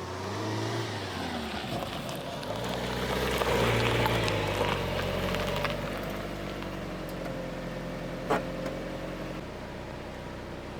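A motor vehicle engine running, its pitch rising and falling, with a single sharp click about eight seconds in.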